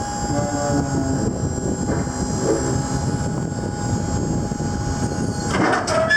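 Truck hydraulic lift gate being raised: its power unit runs with a steady whine and low mechanical noise. The whine stops about five and a half seconds in, followed by a few knocks.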